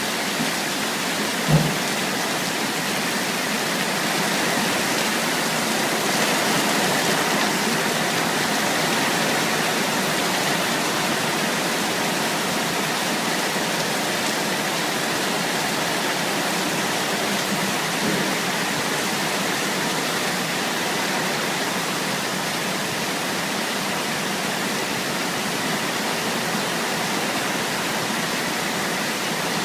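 Rain falling steadily, with one brief thump about a second and a half in.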